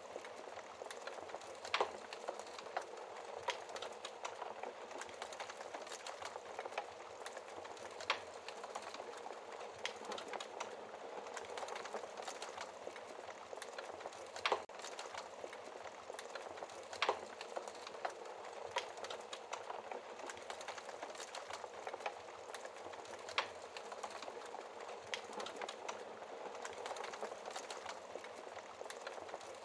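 Wood fire burning in a fireplace, crackling: a steady hiss of flames with small irregular crackles and a louder sharp pop every few seconds.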